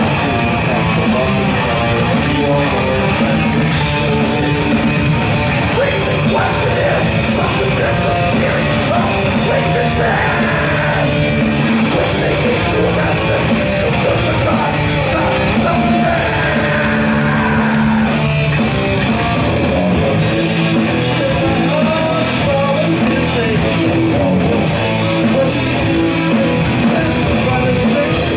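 A band playing heavy rock live and loud, with electric guitar and shouted vocals.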